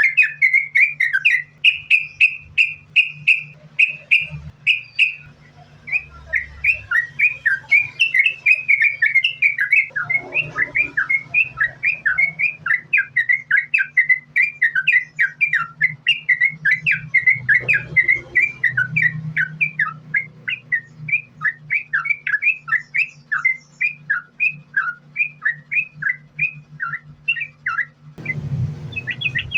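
Yellow-vented bulbul (trucukan) singing a fast, unbroken run of short chirping notes, several a second, over a steady low hum. About a second before the end the sound switches abruptly to a noisier passage of quicker, higher notes.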